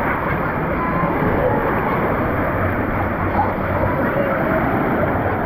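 Wave pool water churning, with the chatter of a crowd of swimmers and faint distant voices over it.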